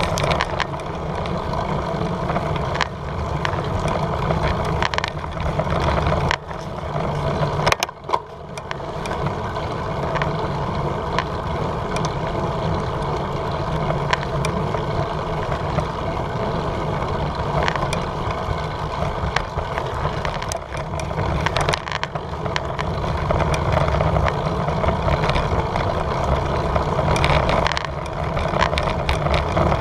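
Wind and riding noise on a bicycle-mounted GoPro: a steady rush with scattered knocks and rattles, briefly dropping away about six and eight seconds in.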